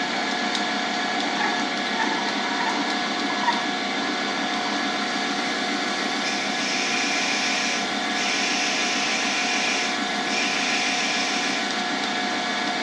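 Lathe spindle running at about 1200 RPM with a steady whine while a tailstock drill bores into a cast blank, the bit turning well over its 400 RPM rating. A hissing cutting noise starts about six and a half seconds in and twice breaks off briefly as the bit is fed in and backed out, about 5 millimeters at a time, to clear chips.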